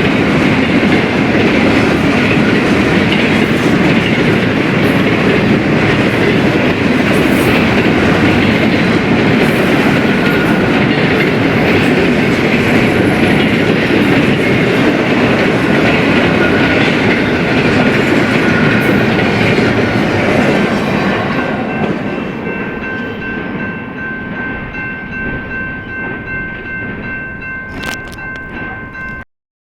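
BNSF freight train rolling by, its wheels on the rails making a loud, steady rumble with a clickety-clack that fades away from about two-thirds of the way in. Over the last several seconds, steady high ringing tones sound above the fading train. The sound then cuts off abruptly just before the end.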